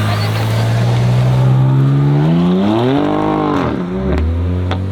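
Car engine running at a steady note, then revving up about two seconds in and dropping back near the end, followed by a couple of sharp cracks.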